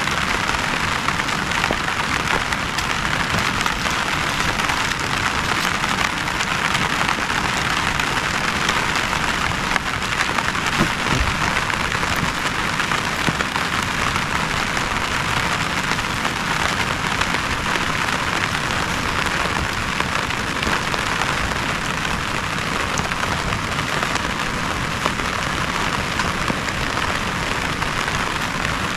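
Heavy rain falling steadily, a dense even hiss with many small drop hits.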